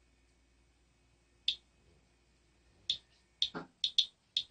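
Geiger counter clicking at irregular, random intervals as it registers radiation from a dirty furnace filter. There is one click about one and a half seconds in, then the clicks come quicker near the end, with a duller knock among them.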